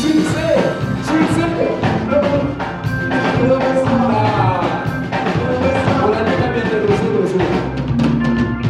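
Live praise-and-worship music: singing over a band with drums keeping a steady beat.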